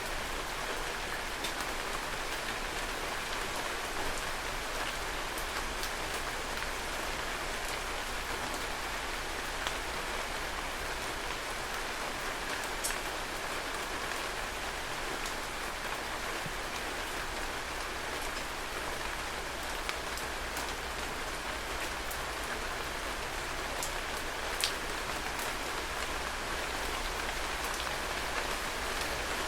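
Heavy rain falling steadily, a dense even hiss, with occasional sharper drops striking close by, the clearest about halfway through and again later on.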